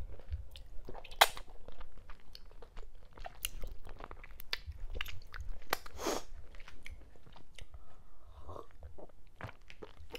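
A person chewing a mouthful of fufu with okra and ogbono soup and cow skin, close to a clip-on microphone: irregular mouth clicks and smacks, with a louder click about a second in and another around six seconds.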